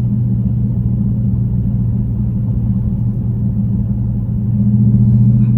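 Car engine and exhaust with the mid muffler deleted, a steady low drone while driving, growing a little louder about four and a half seconds in.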